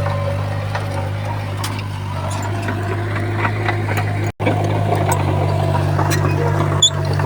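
Komatsu bulldozer's diesel engine running steadily under load, with scattered clanks from the machine working. The sound cuts out for an instant about four seconds in.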